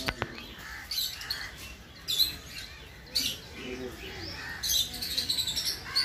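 Small cage birds giving short, high chirps on and off, several in quick succession near the end. There is a single sharp knock right at the start.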